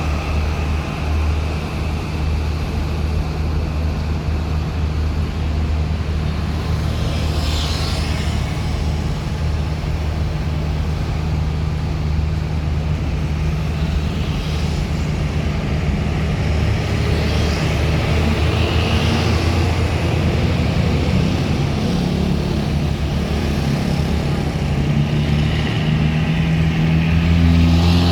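Heavy vehicle's engine running with a steady low drone, its revs rising over the last several seconds as it pulls away, with a couple of short hisses.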